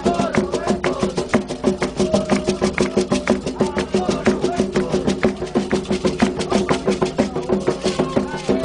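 Candomblé ritual music: fast, dense drumming on atabaque hand drums under a group singing a chant. A steady held drone sits beneath the voices.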